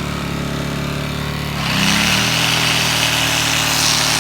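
Briggs & Stratton P2200 portable generator running steadily; about a second and a half in, a 1000-watt drill powered from it starts up and keeps running, and the generator's engine note shifts as it takes the load without overloading.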